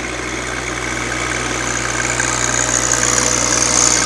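John Deere 2025R compact tractor's diesel engine idling steadily.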